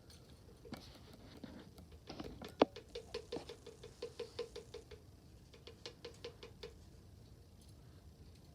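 Glitter being shaken and tapped out of a small plastic container into a water bottle: a quick run of light clicks, several a second, with one sharper click among them, starting about two seconds in and stopping before the end.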